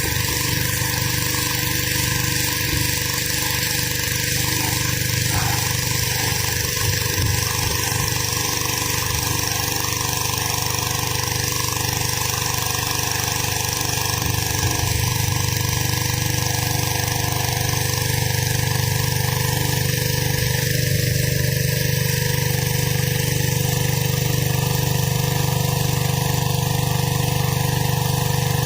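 Gas-engine pressure washer running steadily, with the hiss of its high-pressure water spray blasting concrete.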